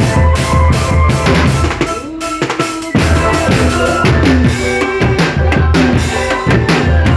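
Marching drum band playing: bass drums thumping and snare drums beating in rhythm under a steady melody, with the drumming thinning out briefly about two seconds in.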